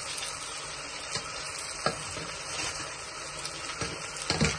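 Food sizzling as it fries in a pan and is stirred, with a couple of short knocks, the loudest near the end.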